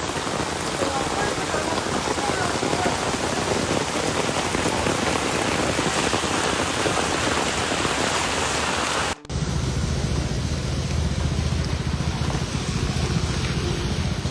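Torrential rain pounding down on hard surfaces as a dense, steady hiss. About nine seconds in it cuts abruptly to a second recording with a deeper, rumbling rush.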